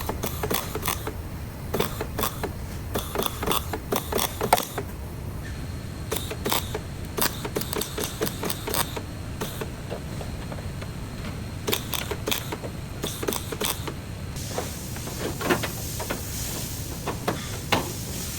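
Irregular run of sharp mechanical clicks and light metallic knocks from hand-tool work, over a steady low hum; a faint high hiss comes in about three-quarters of the way through.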